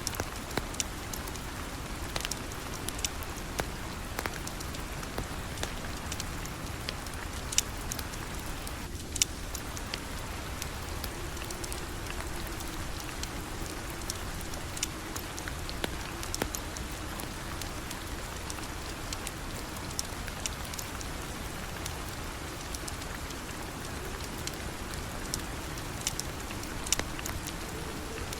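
Steady rain falling, an even hiss dotted with scattered sharp ticks and pops.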